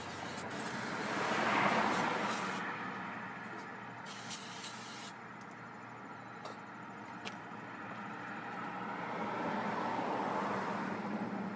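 Aerosol brake cleaner sprayed in two bursts, a hiss of about three seconds at the start and a shorter one of about a second a few seconds later. Passing road traffic swells up and fades away twice behind it.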